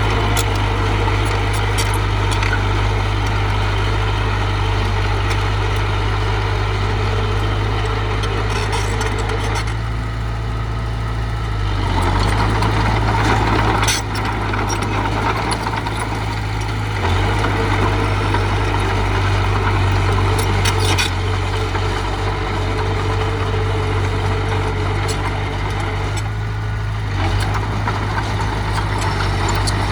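Heavy diesel engine of an earthmoving machine running steadily, with a loud low drone that shifts slightly in pitch a few times as the load changes.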